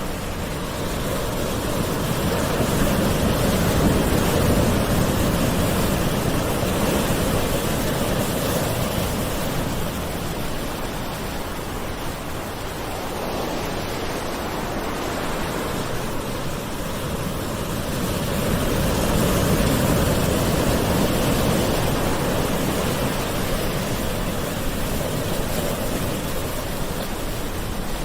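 Gentle ocean waves washing in, a steady rush of surf that swells twice and then eases back.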